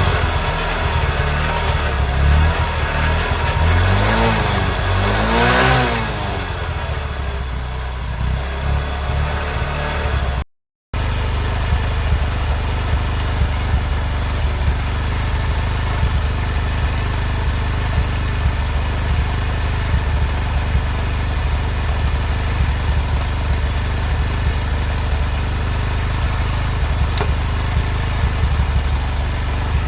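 Bajaj CT 100 motorcycle's single-cylinder engine revved in a few quick blips, its pitch rising and falling. After a short cut, it idles with a steady, even exhaust beat.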